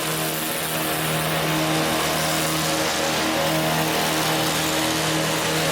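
An engine running steadily at a constant pitch, with an even hum and no change in speed.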